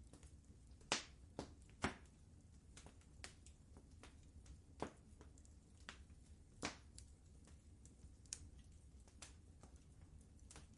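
Fireplace fire crackling: faint, irregular pops and snaps over a low, steady rumble, with a few louder pops about one and two seconds in and again near seven seconds in.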